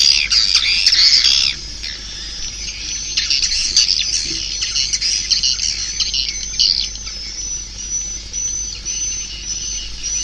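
Swiftlet calls of the kind played through swiftlet-house tweeters to lure the birds in: dense high twittering chirps for about the first second and a half, then sparser chirps, and from about seven seconds a run of short, evenly spaced high peeps.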